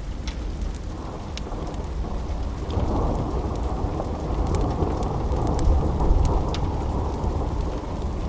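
Steady rain with a low rumble of thunder that swells about three seconds in and peaks past the middle. Scattered sharp ticks sound over it.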